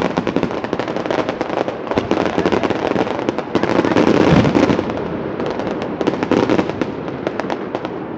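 Fireworks display: a dense, continuous barrage of bursting shells and crackling, heaviest about four seconds in with a deep rumble, then thinning to scattered sharp cracks.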